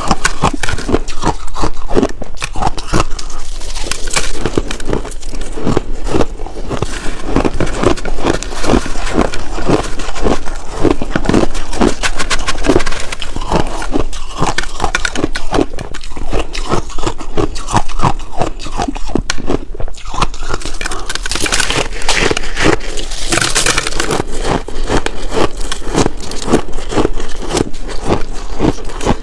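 Ice chunks being chewed close to the microphone: a rapid, continuous run of crackling crunches.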